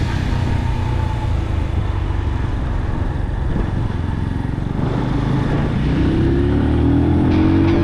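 Brixton Cromwell 125's single-cylinder four-stroke engine running on the move, its pitch rising over the last couple of seconds as the bike accelerates.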